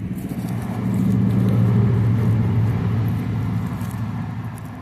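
A motor vehicle driving past, its low engine hum growing louder over the first two seconds and then fading away.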